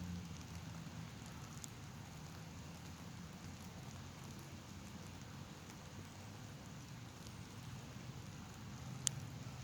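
Light rain sprinkling: a steady faint hiss with a few scattered drop ticks over a low rumble, and one sharp click near the end.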